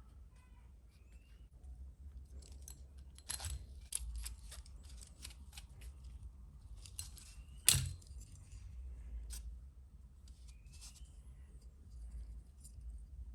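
Scattered sharp clicks and snips of hand tools and small parts being handled during model-kit assembly, with one loud sharp click a little past halfway.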